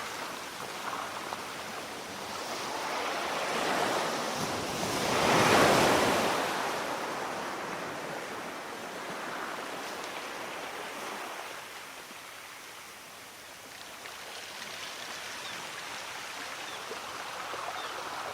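Sea waves washing onto a shore, one wave swelling and breaking loudest about five seconds in, then the wash sinking away before the surf builds again.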